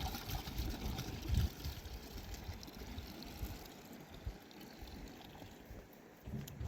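Running water, a stream or trickle, with a few irregular low thumps, the loudest about a second and a half in.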